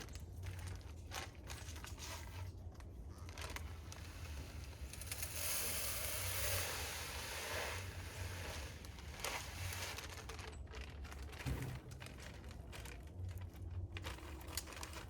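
Crinkling and rustling from handling birdseed and bird feeders, with scattered clicks and knocks and a few seconds of steady hiss about five seconds in.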